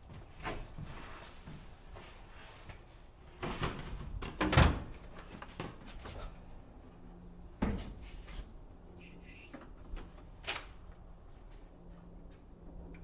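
A few scattered clunks and knocks of things being handled, the loudest about four and a half seconds in.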